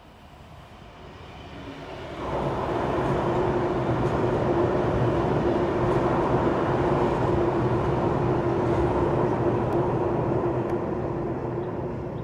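Double-deck electric passenger train passing: a rumble of wheels on rails with a steady hum, rising sharply about two seconds in and fading near the end.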